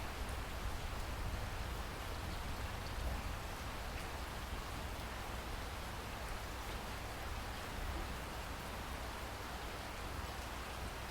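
Steady rain falling: an even hiss with a low rumble underneath and a few faint drop ticks.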